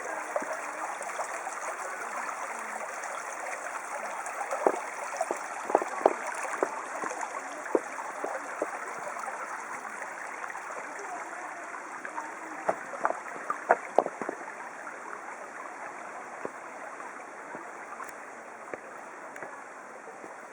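Fast-flowing stream rushing and babbling steadily, with short sharp splashy clicks now and then, most of them in the middle stretch. It grows slightly fainter toward the end.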